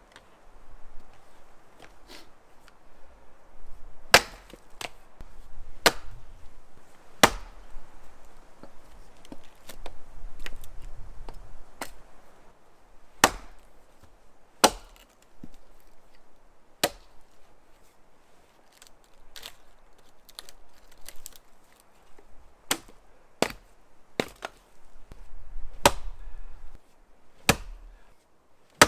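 Axe blows chopping into wood: a long series of sharp single strikes at an uneven pace, usually a second or more apart.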